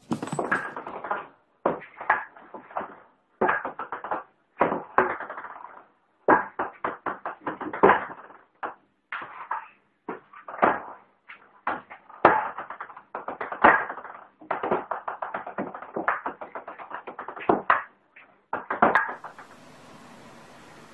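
Bursts of rapid light impacts like a small object bouncing or rattling on a hard surface, repeating again and again with short gaps. They stop about nineteen seconds in and a steady hiss takes over.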